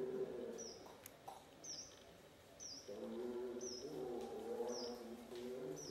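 A bird repeating a short, high chirp about once a second, over lower wavering tones that come in at the start and again from about three seconds in.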